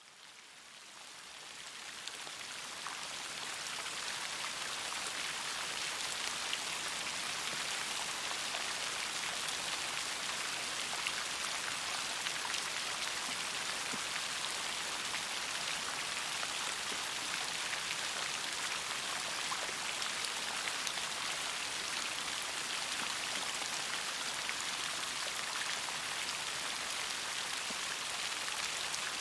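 Steady rain, many close individual raindrops ticking over a constant hiss, fading in over the first few seconds and then holding level.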